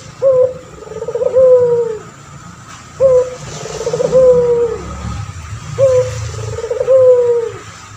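A male puter pelung dove (a domestic collared dove kept for its long voice) cooing. It gives three calls, each a short rising note followed by a longer, quavering coo that falls away at the end.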